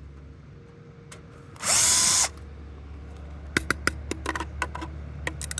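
Power drill-driver running in one short burst of about half a second, its motor whining up to speed, as it drives out a screw from the washing machine being dismantled. This is followed by a string of sharp clicks and knocks of parts being handled.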